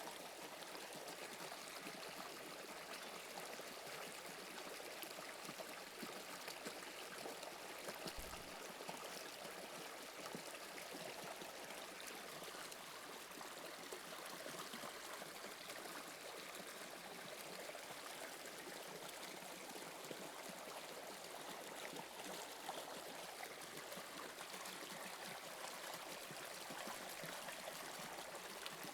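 Toronto subway Line 2 train running, a faint, steady rushing noise with a brief low thump about eight seconds in.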